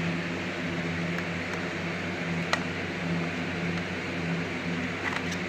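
A steady machine hum, like a fan or motor running, with one sharp click about halfway through.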